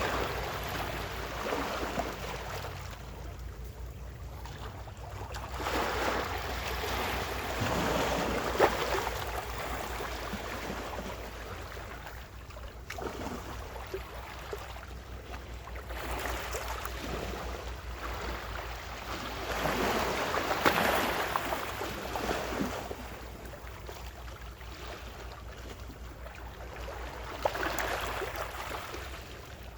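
Gentle ocean waves washing onto the shore, each rising and falling away over a few seconds, about five in all, over a steady low rumble.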